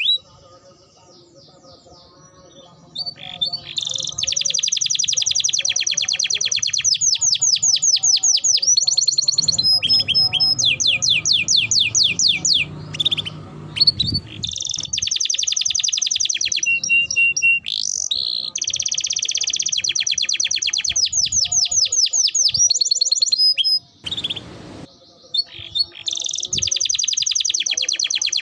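A songbird singing fast trilled phrases of high repeated notes, broken by short pauses between phrases.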